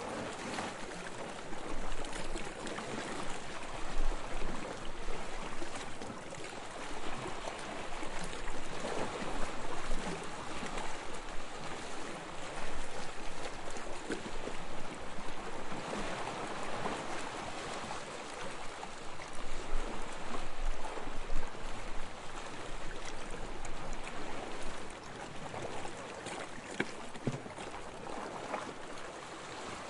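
Small waves lapping on a sandy shore: a continuous wash of water with gentle swells every few seconds as each wave breaks and runs up the sand, with small fizzing and trickling sounds.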